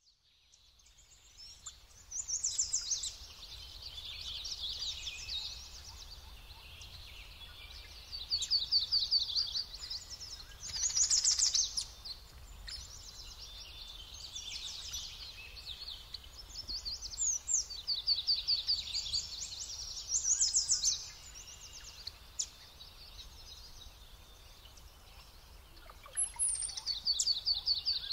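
Songbirds singing: high, fast trilled phrases repeated every few seconds, loudest around a few seconds in, about eight seconds in, eleven seconds in, and again near the end, over a faint steady low background noise.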